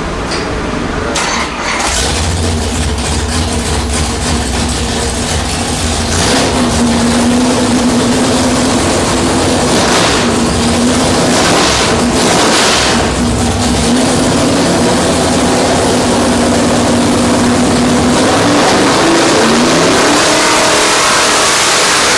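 A 426 Hemi V8, stroked to 491 cubic inches, running on an engine dyno. It runs steadily, then its revs rise at about eighteen seconds in.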